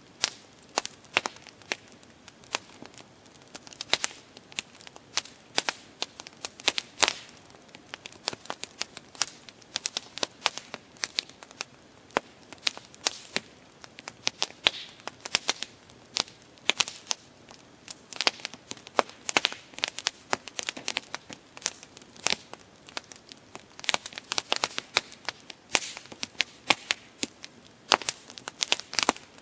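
Campfire burning: wood crackling with irregular sharp pops, several a second, over a faint steady hiss.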